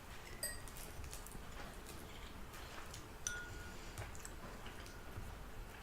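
Faint clinking of eating utensils against dishes during a meal, with two short ringing clinks, about half a second and about three seconds in, among scattered small clicks.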